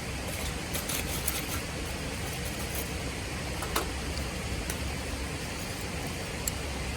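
Wood fire in a Solo Stove Titan giving a few sharp crackles and pops, the loudest about four seconds in, over a steady rushing noise.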